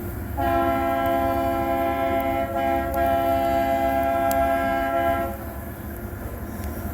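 Diesel cog railway locomotive's horn sounding one long blast of about five seconds, a chord of several steady tones with a brief dip about two and a half seconds in, over a low rumble.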